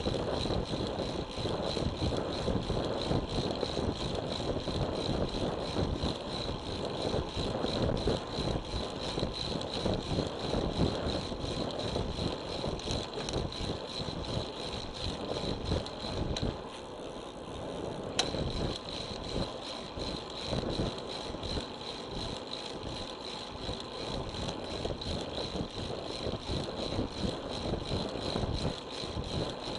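Wind buffeting an action camera's microphone on a moving road bike, with tyre and road noise and light rattling, and a thin steady high whine over it. It eases briefly about seventeen seconds in, and there is a single sharp click just after.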